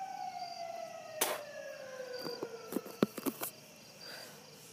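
A siren's single tone sliding slowly down in pitch as it winds down, with a few sharp knocks and clicks about a second in and around the three-second mark. Crickets chirp faintly throughout.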